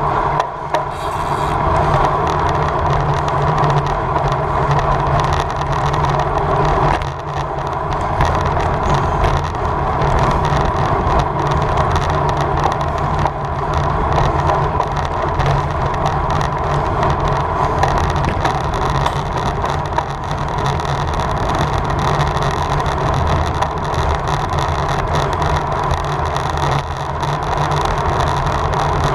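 Steady rush of wind and tyre noise from a road bicycle ridden at race speed, with a short dip about seven seconds in.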